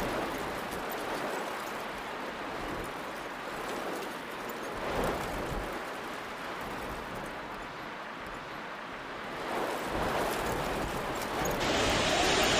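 Heavy storm rain with hail pelting down: a steady hiss of rain noise with faint scattered ticks, growing louder about a second before the end.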